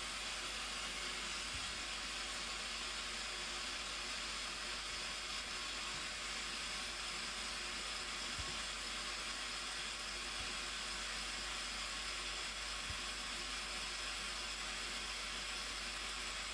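Steady, unbroken rushing of falling water, like a waterfall's roar.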